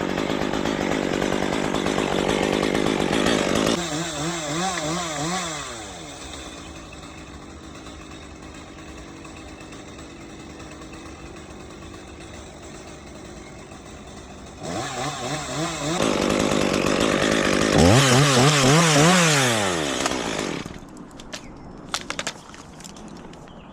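Chainsaw cutting wood, its engine pitch rising and falling as the throttle is worked. It drops to a quieter steady running for several seconds in the middle, then revs up loudly again.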